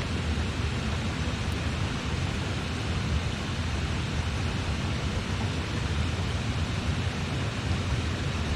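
Steady rushing of river water, an even noise with a low rumble, and one faint tick from the wood campfire about five seconds in.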